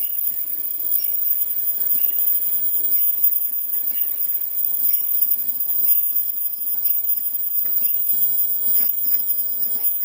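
Automatic bird-beak 2D face mask making machine running at its production pace of about 66 masks a minute: a steady high-pitched whine over a continuous clatter of small clicks and knocks.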